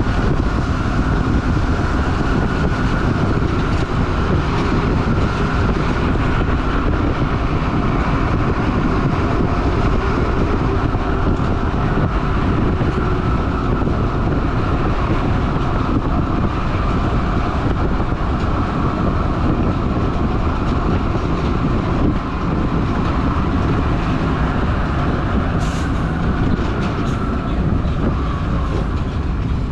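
Stewart & Stevenson M1078 LMTV military truck driving at a steady pace, its engine and road noise running evenly with a rattling clatter.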